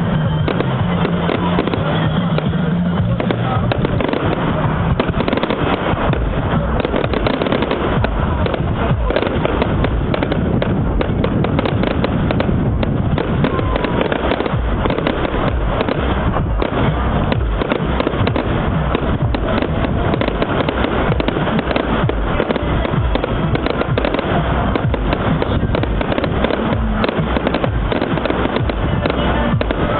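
Fireworks going off in a dense, continuous barrage of bangs and crackling with no let-up.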